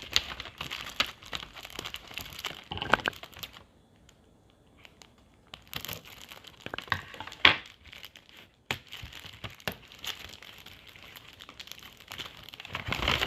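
A chocolate bar's wrapper crinkling as it is handled and torn open, with sharp crackles and one loud snap. There is a pause of near quiet about four seconds in.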